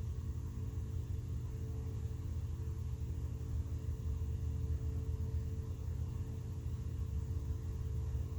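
A steady low hum with a rumble under it, unchanging throughout.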